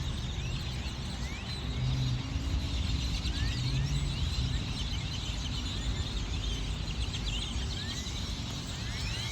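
A large flock of birds calling, many short rising chirps overlapping throughout, over a low steady rumble of parking-lot traffic.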